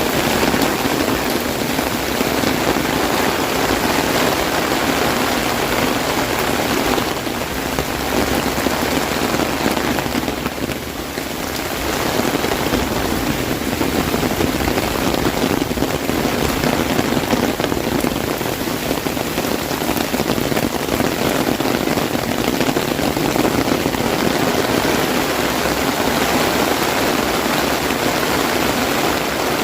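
Heavy rain pattering on an umbrella: a dense, steady hiss of drops, easing slightly for a moment about ten seconds in.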